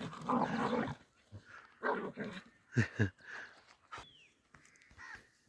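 Dogs snarling and growling in a fight, with two short barks close together about three seconds in.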